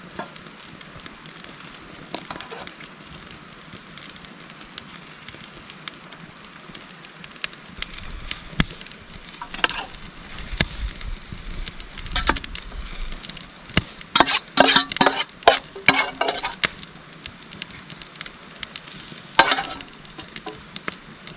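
Steady sizzling of food frying over a camp stove, with metal clinks and scrapes as tongs and a utensil work a pan and serve pasta into steel bowls. The clinks come in a dense cluster about two-thirds of the way through and once more near the end.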